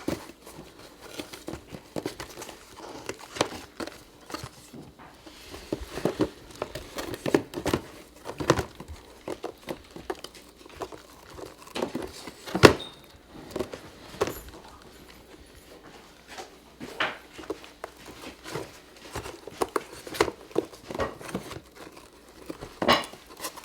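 Cats clawing and biting at a box to tear it apart: irregular scratching, crinkling and ripping, with one sharp knock about halfway through.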